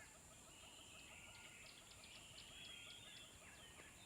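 Faint nature ambience of many birds chirping and calling, quick short notes overlapping, over a steady high hiss.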